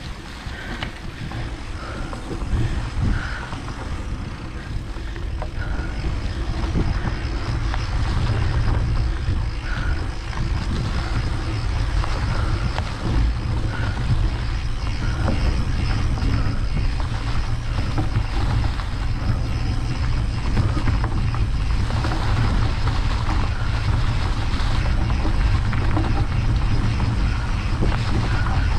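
Steady low rumble of wind buffeting the microphone while moving, building up over the first several seconds and then holding.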